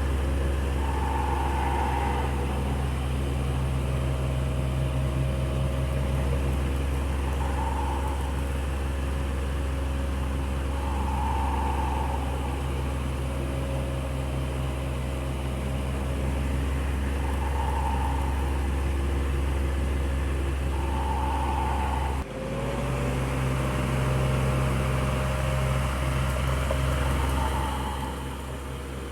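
Electric fan running with a steady low hum and a faint recurring whir every few seconds. About three-quarters of the way through, the sound briefly dips and its tone shifts slightly.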